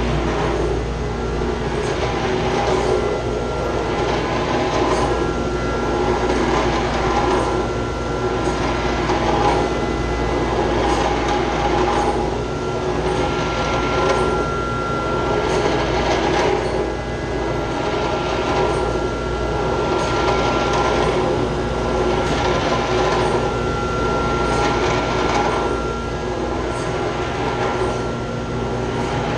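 Loud, steady running of chiller plant machinery, with a thin high whine and rough swells in the noise every second or two.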